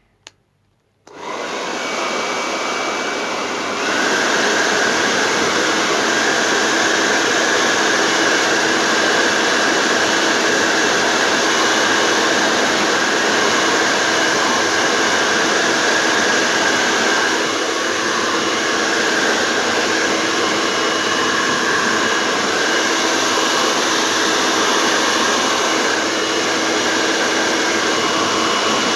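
Electric hair dryer switched on and blowing steadily, a whirring rush of air with a faint whine. It starts about a second in and gets louder about four seconds in.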